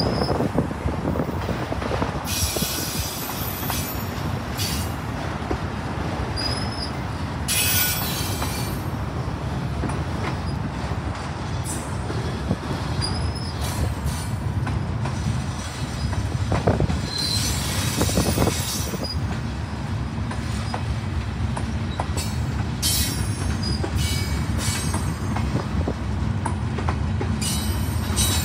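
Freight train of autorack cars and boxcars rolling past at track speed: a steady rumble of steel wheels on rail, with short high-pitched wheel squeals and hisses every few seconds.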